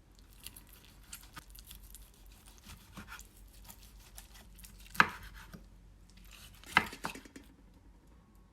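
Kitchen food preparation: light clicks and taps, with two sharp knocks about two seconds apart in the second half, like a knife coming down on a cutting board.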